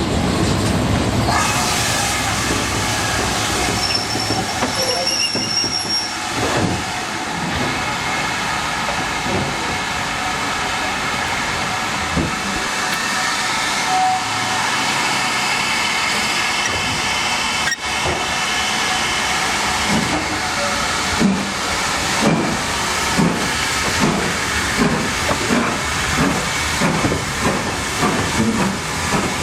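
Steam-hauled passenger train running along the line: a steady rumble of carriage wheels on the rails, with a regular beat of clacks in the second half.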